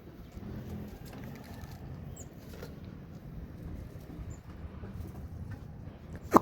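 Faint low clucking from Aseel chickens over a low rumble, with one sharp knock near the end.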